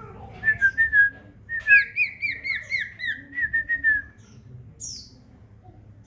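Common iora (cipow) singing: a quick run of about fifteen clear, downward-slurred whistled notes lasting some three and a half seconds, followed by a single short high note.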